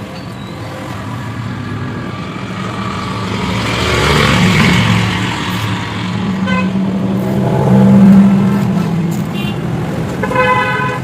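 Motorcycle engine running and being revved, swelling twice: once about four seconds in and louder about eight seconds in.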